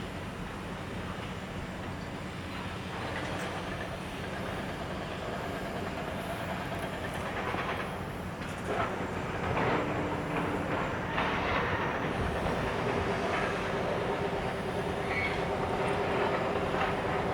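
Container freight train rolling slowly into a station, its wheels clacking over the rail joints. It grows louder about nine seconds in, with a faint steady tone over the rolling noise.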